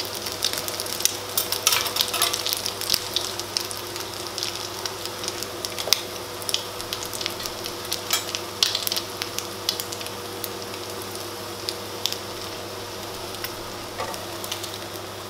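Slices of rabanada (Portuguese French toast) frying in shallow oil in a pan over a low gas flame: a steady sizzle with frequent sharp crackling pops.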